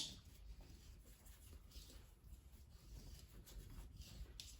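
Near silence, with a few faint, short scratchy rasps.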